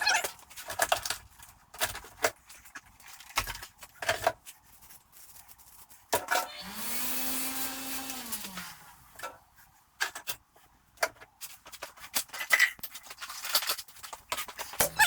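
Tools and metal parts clattering and knocking as they are handled. About six seconds in, a hiss lasts about two and a half seconds, with a steady hum that drops as it stops.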